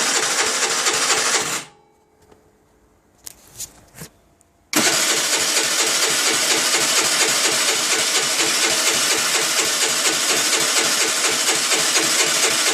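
2008 Baotian Tanco scooter's 50cc four-stroke single-cylinder engine running, then dying out about a second and a half in. After a few faint clicks it catches suddenly about five seconds in and runs steadily again: a hard-starting engine that stalls and has to be restarted.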